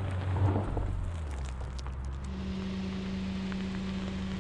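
The Infiniti QX55's engine fades as it pulls away over a dirt hill crest, with a few gravel ticks. About two seconds in, this gives way to a steady, low engine hum of the vehicle idling.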